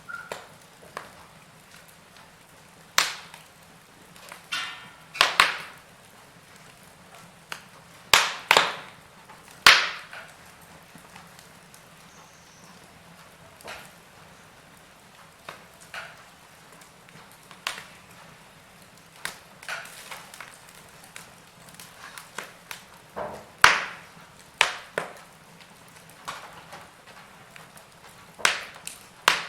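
Wood fire crackling in a fireplace: irregular sharp pops and snaps over a faint steady hiss, a handful of them much louder than the rest.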